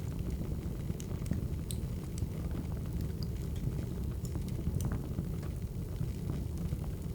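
Burning firewood crackling: a steady low rumble with irregular sharp pops and snaps scattered through it.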